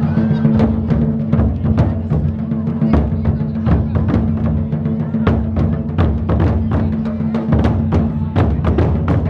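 Japanese taiko drums struck in a fast, dense, steady rhythm of hits, with a steady low ringing from the drum bodies underneath, as in a kimen-daiko performance.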